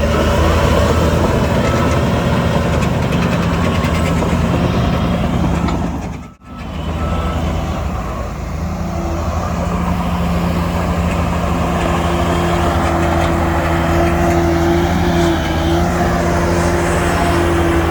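Diesel engines of heavy earthmoving machinery (bulldozer and dump truck) running steadily, with a reversing beeper sounding in short beeps during the first few seconds. The sound drops out for an instant about six seconds in, then an engine runs on at a steady, different pitch.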